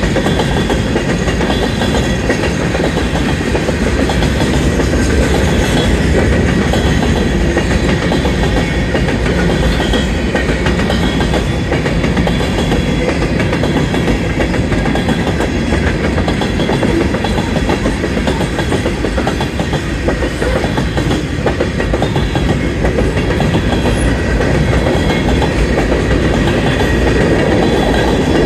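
Freight train cars of a Union Pacific manifest train rolling steadily past, with wheels clacking over the rail joints and a continuous rumble.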